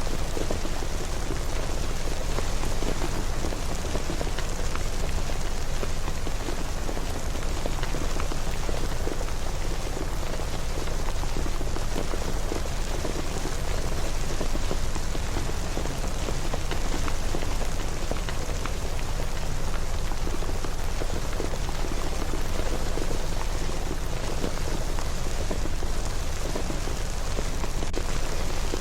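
Steady rain falling, an even hiss without a break, over a constant low rumble.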